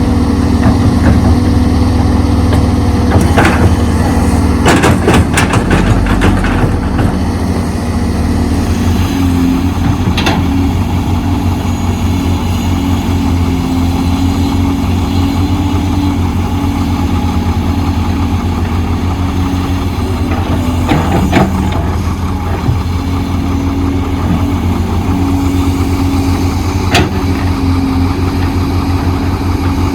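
Heavy earthmoving machine's diesel engine running steadily, with a few sharp knocks and clanks scattered through.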